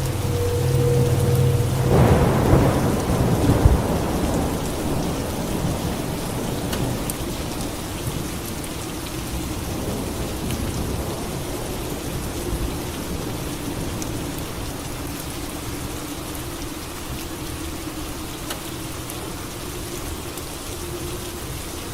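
Steady rain falling, with a thunderclap about two seconds in that rumbles for a couple of seconds and then fades back into the rain.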